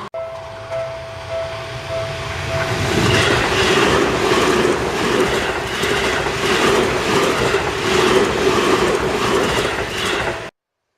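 Seibu Railway electric train passing at close range, its wheels clacking over the rail joints. A steady two-note tone is heard for the first couple of seconds, then the train noise swells and stays loud until it cuts off suddenly near the end.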